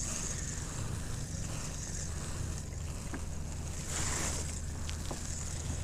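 Wind and lapping water around a kayak on open water, with a steady low rumble and a few faint ticks; a swell of wind hiss about four seconds in.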